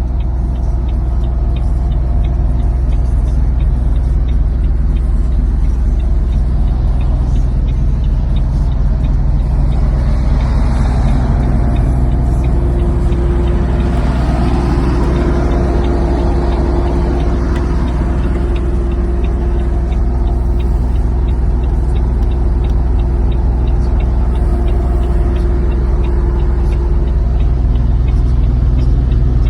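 Heavy diesel engine running steadily with a deep, constant hum. In the middle a second sound swells up and fades away again, and a steady tone joins the hum about halfway through.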